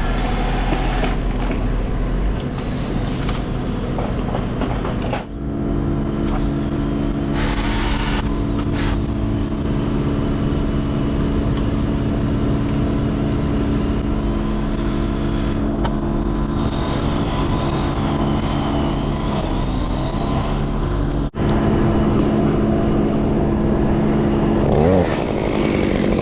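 Crane engine running steadily. It cuts out briefly about 21 seconds in, and near the end a saw starts revving up and down.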